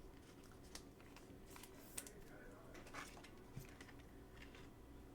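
Near silence with a few faint, scattered clicks and rustles of trading cards being handled.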